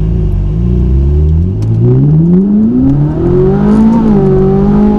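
Ferrari 458's naturally aspirated V8 through a Capristo aftermarket exhaust, accelerating hard: after a low rumble its note climbs steadily in pitch from about a second and a half in, then levels off near the end.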